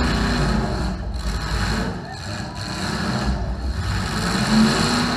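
Demolition derby car engine idling with a steady, low-pitched running sound that dips slightly in loudness around two seconds in.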